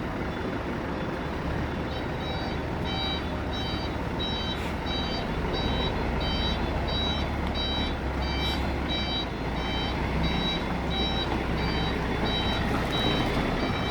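Truck reversing alarm beeping evenly, about two beeps a second, starting about two seconds in, over the steady low running of the truck's engine.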